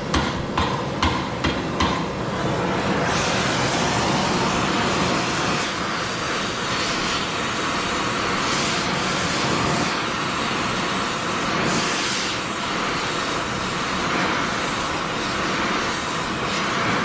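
About five quick hammer strikes on steel at the start, then the steady rushing hiss of a gas torch flame heating a steel snowblower skid so its end can be bent up.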